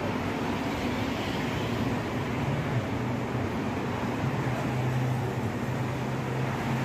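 Steady low hum of an engine running at idle, over general street noise.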